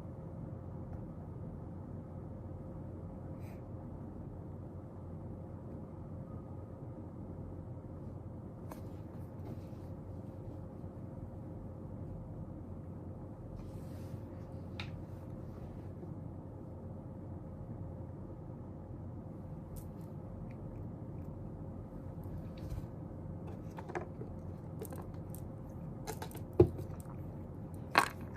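Steady low room hum with a faint constant tone, broken by scattered soft clicks and taps of things handled at a study desk, and two sharper knocks near the end.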